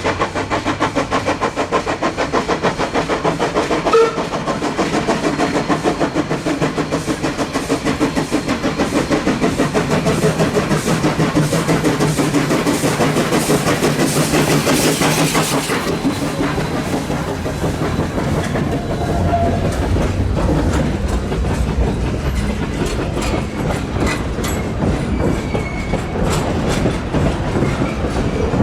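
Steam locomotive C17 974 working a passenger train, its exhaust beating fast and even, then the train's carriages rolling by with a clickety-clack of wheels over rail joints in the second half.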